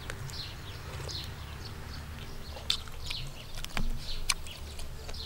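Small birds chirping over and over in short falling chirps, with a few sharp clinks of a metal spoon against a ceramic soup bowl in the second half and a steady low rumble underneath.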